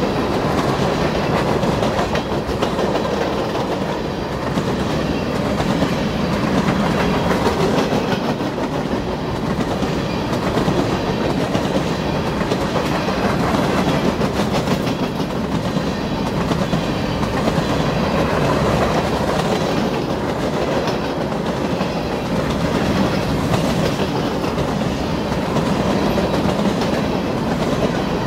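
Railroad cars of a passing train rolling by, wheels clacking over the rail joints in a steady, continuous run.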